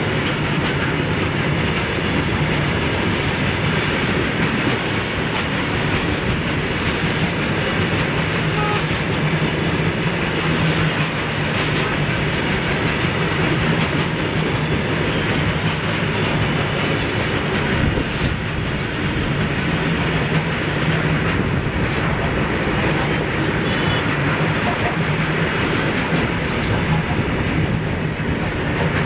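Open-top BOXN freight wagons rolling past close by in a long, steady rake, their steel wheels clattering continuously over the rails.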